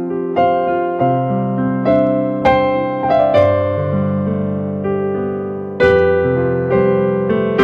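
Slow, sustained electric piano playing: soft chords and single notes struck every second or so, each ringing on as it fades.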